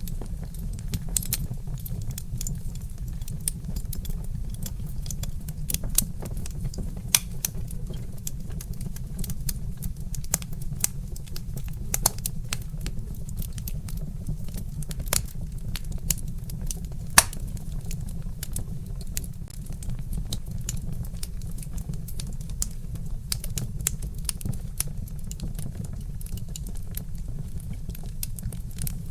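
Wood fire crackling, with frequent sharp snaps and pops over a steady low rumble and a few louder pops scattered through.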